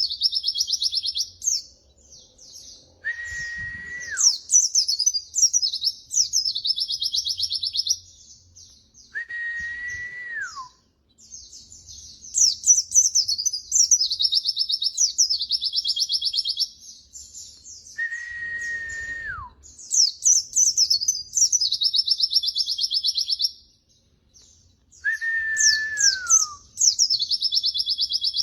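White-eye (pleci) song from a tutor recording: fast, high, continuous warbling and trilling in long bursts. Four times, a separate clear whistle is held about a second and then slides downward.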